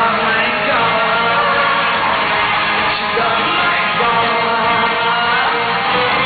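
Live concert music: a singer with a band performing a medley of pop hits.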